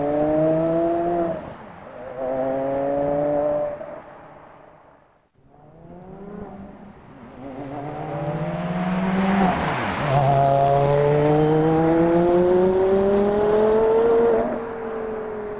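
Porsche Carrera GT's V10 engine through an AWE Tuning exhaust, accelerating in several rising pulls with short breaks between them as it shifts up. The sound fades almost away about five seconds in, then builds again into one long rising pull that drops off near the end.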